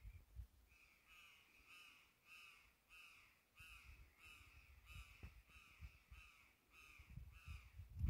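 A bird calling over and over, faint, one short note about twice a second, each note slurring slightly downward.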